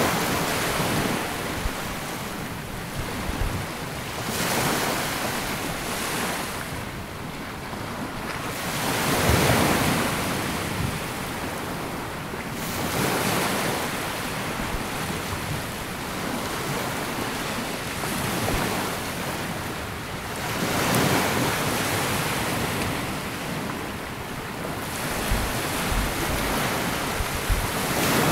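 Small sea waves washing onto a sandy beach: the surf swells and ebbs every few seconds, each wash a rising, then fading rush, with wind buffeting the microphone.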